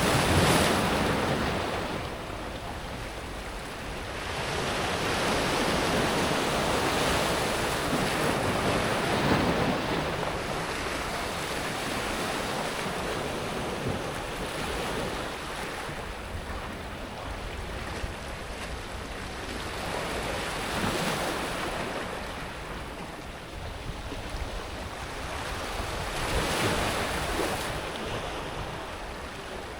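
Small sea waves breaking and washing over a pebble beach, the water running over the smooth pebbles. The surf swells and ebbs every few seconds as each wave comes in and draws back.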